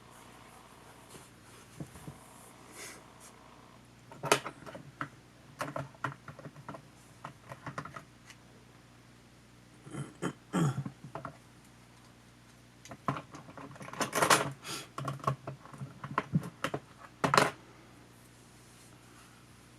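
Irregular clusters of small clicks and taps from plastic camcorder parts and small tools being handled during disassembly, the densest and loudest group a little past the middle.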